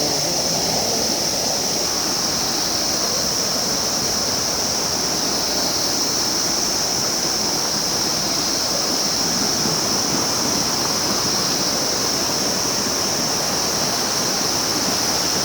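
Rushing river water, a steady, even flow with no breaks, with a constant high hiss above it.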